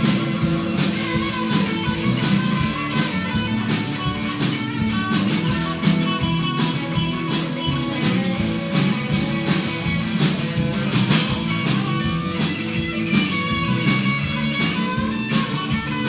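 Live country-rock band playing an instrumental break: electric guitar lead over bass and a steady drum beat.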